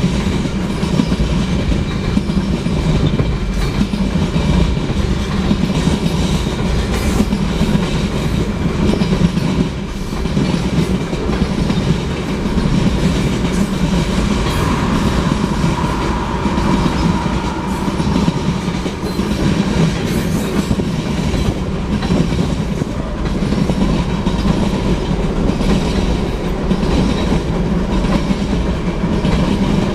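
Union Pacific manifest freight train rolling past at a steady speed, its wheels clacking over the rail joints. A faint squeal rises briefly about halfway through.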